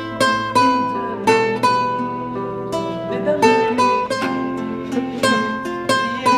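Plucked string instrument being played in an improvised way: a run of sharply picked notes and chords, several a second, each ringing and fading.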